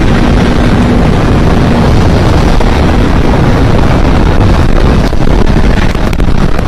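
Loud, steady wind rush on the microphone over a motorcycle running at speed.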